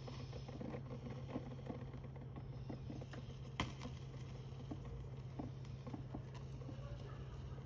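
Small garden fire crackling, with scattered soft pops and one sharper snap about three and a half seconds in, over a steady low hum.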